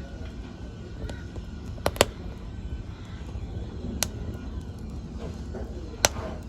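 Fire in a fireplace crackling over a steady low rumble, with sharp pops: two close together about two seconds in, another about four seconds in, and one near the end.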